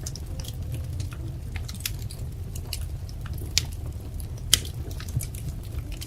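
Wood fire crackling: irregular sharp pops and snaps over a steady low rumble of the burning, with two louder pops about three and a half and four and a half seconds in.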